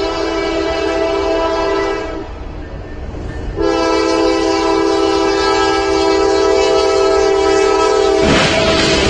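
Train horn sounding a multi-tone chord in two long blasts, with a break of about a second and a half between them. A brief noisy rush covers it near the end.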